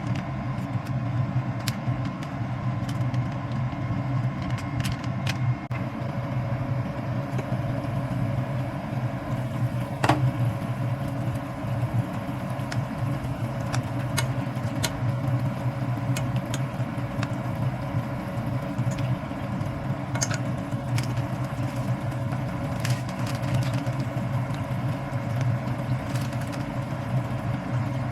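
A steady low hum, like a motor or fan running, with scattered light clicks and taps and one sharper click about ten seconds in.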